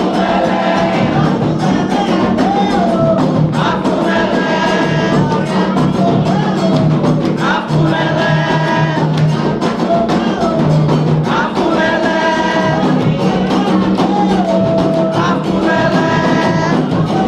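Candomblé sacred chant for the orixá Oyá, sung by a group of voices in repeating phrases over continuous atabaque hand-drumming and percussion.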